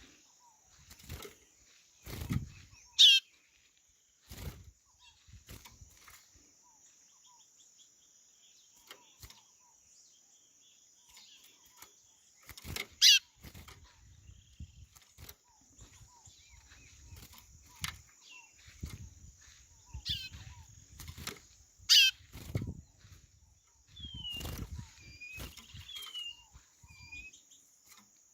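White-bellied seedeater (chorão) calling: three loud, short falling whistles about ten seconds apart, then softer whistled notes near the end, over a steady high insect hum and a few low thumps.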